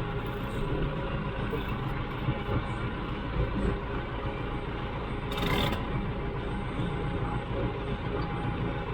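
Farm tractor's engine running steadily, with a brief rush of noise about five and a half seconds in.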